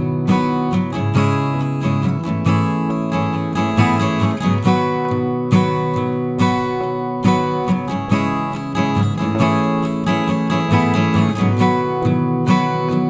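Background music: an acoustic guitar strummed and plucked in a steady, even rhythm.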